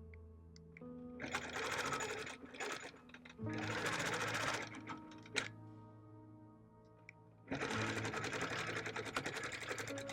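Quilting machine stitching in three short runs, with brief pauses between: one starting about a second in, one near the middle, and one from about three-quarters through. Background music with sustained notes plays underneath.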